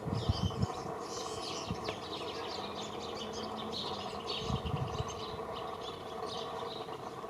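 Small birds chirping and twittering, with low thumps near the start and again about four and a half seconds in.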